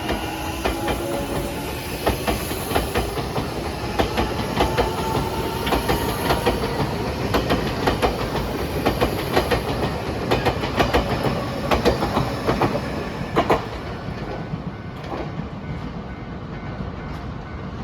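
Nankai Main Line electric train passing close by, its wheels clattering over rail joints in repeated groups of clicks. The clatter stops about fourteen seconds in and the running noise fades away.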